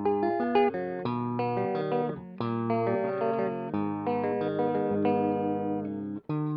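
Electric guitar played through a Caline 'British Sound' overdrive pedal, a looper replaying a recorded rhythmic part of notes and chords. There is a short break in the sound near the end.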